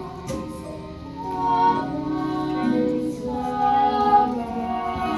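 Music: singing with instrumental accompaniment, in long held notes.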